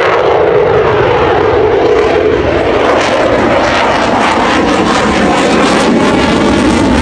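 Eurofighter Typhoon's twin jet engines roaring loudly and steadily as the fighter flies a display close overhead.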